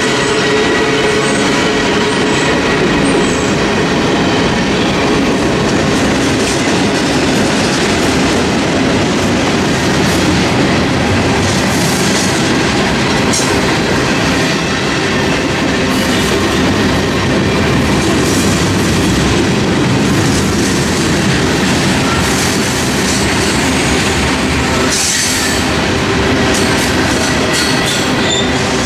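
Freight cars of a mixed freight train rolling past close by: a steady, loud rumble of steel wheels on rail. It has a clickety-clack over the rail joints, a few sharper clicks, and a faint high wheel squeal.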